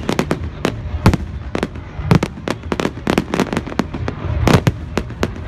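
Fireworks going off: a rapid, irregular string of sharp bangs and crackles, several a second, over a low rumble.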